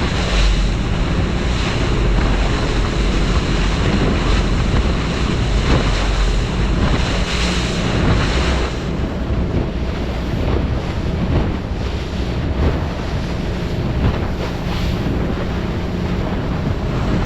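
A powerboat running at cruising speed through choppy seas: water rushing and slapping against the hull, strong wind buffeting the microphone, and the boat's motor droning steadily underneath. The hiss of wind and spray eases somewhat about halfway through.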